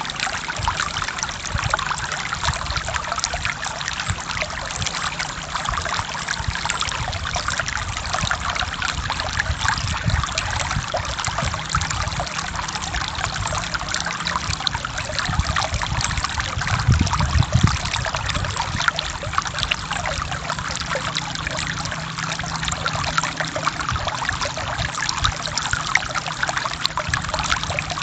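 Forest stream flowing: a steady wash of babbling, trickling water, with a brief low rumble a little past halfway.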